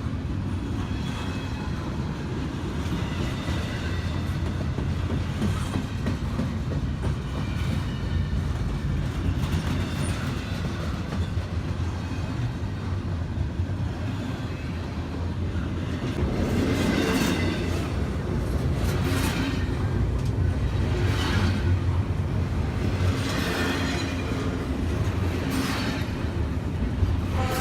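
A train rolling past with a steady low rumble. About halfway through, wheel clacks over the rail joints set in and repeat roughly every two seconds.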